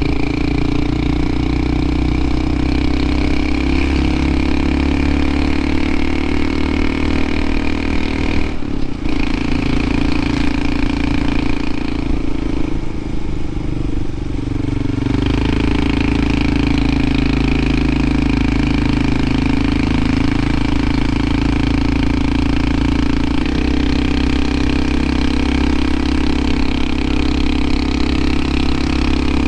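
Honda CT125 Hunter Cub's air-cooled single-cylinder engine running steadily under load on a steep mountain climb. The engine note breaks briefly about nine seconds in and shifts in pitch a few seconds later before settling again.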